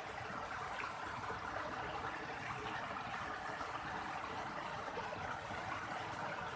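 Steady, even rush of water, unbroken throughout.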